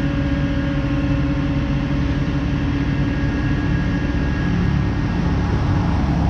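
Motor vehicle engine running steadily: a low, even drone with a steady hum over it.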